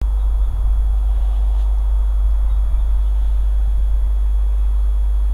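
Allegro high-speed electric train approaching through snow: a steady low rumble under an even hiss.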